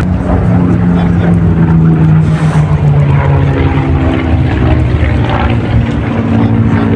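Loud, continuous engine noise of a display aircraft flying, its pitch sliding slowly as it moves across the sky.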